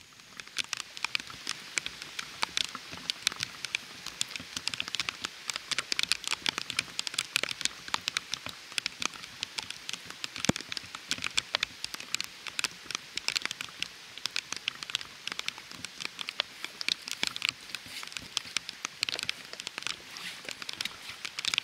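Steady rain, a dense run of sharp drop ticks over an even hiss, beginning suddenly at the start.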